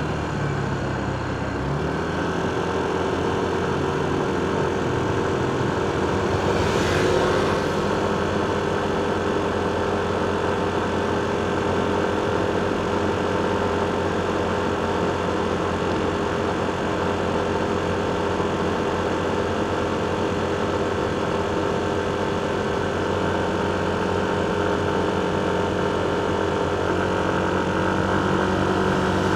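Motorcycle engine running steadily amid heavy road traffic, with other vehicle engines humming around it. A brief hiss rises about seven seconds in.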